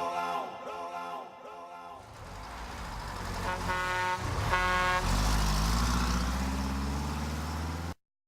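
A vehicle horn gives two short blasts, about a second apart. An engine then speeds up with a slowly rising pitch and cuts off suddenly near the end.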